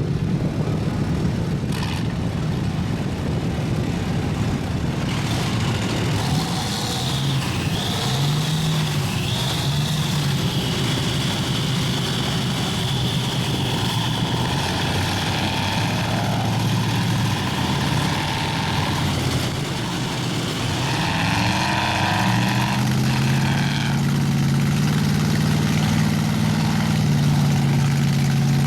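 Big mud-bogging trucks' engines running and revving. One engine climbs about twenty seconds in and holds a high, steady rev to the end.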